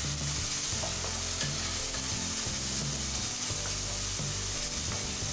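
Chopped onion and onion-coconut paste sizzling in hot oil in a pressure cooker, stirred and scraped around the pot with a spatula. The sizzle is a steady hiss throughout.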